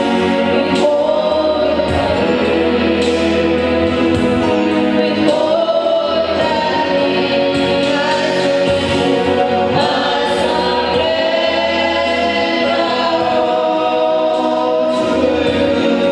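A choir singing gospel worship music with instrumental backing.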